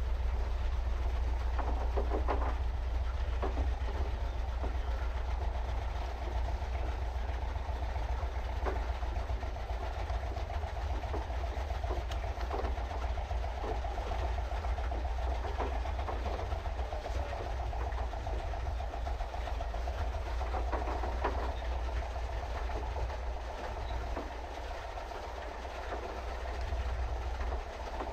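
Pedal boat's paddle wheel churning the water with its pedal drive clattering in a steady rhythm, over a continuous low rumble.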